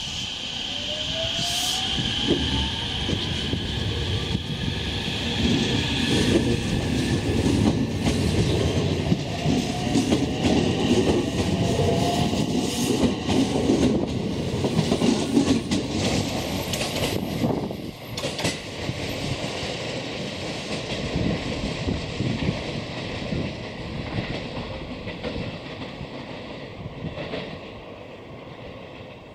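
Electric train passing on the line: wheel-on-rail rumble and clatter builds, stays loud for several seconds, then fades away. A short rising whine is heard near the start.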